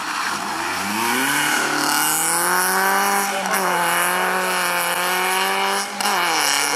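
BMW E36 rally car engine revving hard and held at high revs while the car slides sideways on wet tarmac. The revs climb over the first second or so, dip briefly just before six seconds in, then climb again.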